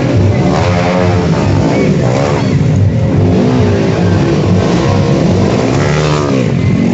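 Dirt bike engines running loudly, with repeated revs that rise and fall in pitch.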